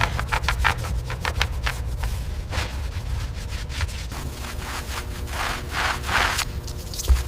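Rhythmic scraping strokes, as in hand sanding or scrubbing a surface: quick short strokes at first, then slower and longer ones.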